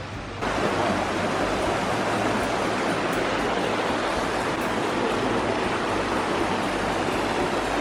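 Rushing water, a steady hiss that cuts in suddenly about half a second in.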